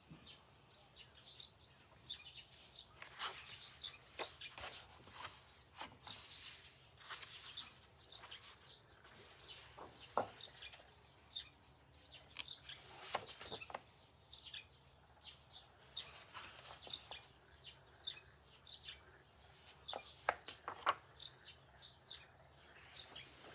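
Paper pages of a colouring book being turned and handled, with short rustles and soft knocks. Small birds chirp quietly in the background throughout.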